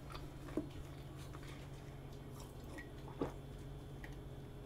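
Quiet mouth sounds of chewing soft vanilla pound cake, with a few small clicks, the sharpest about three seconds in, over a faint steady low hum.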